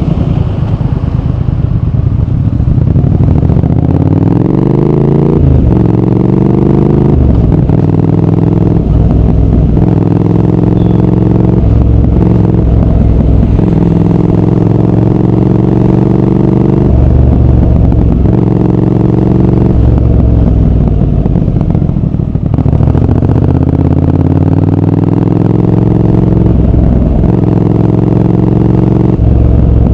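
Triumph Speed Twin 1200's 1200 cc parallel-twin engine and exhaust pulling hard. The pitch climbs in each gear and drops at each upshift, through a run of quick shifts. Around two thirds of the way in it eases off, then pulls up through the gears again.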